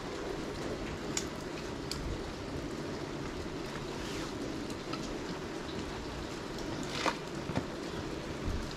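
Steady rain hiss and dripping, with a few short sharp ticks of drops or light knocks.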